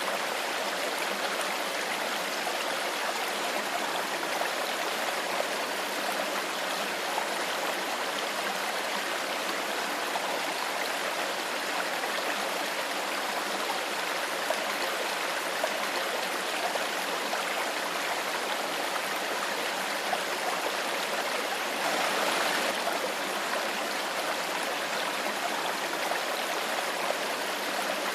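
Stream water flowing steadily, with a brief louder swell about three-quarters of the way through.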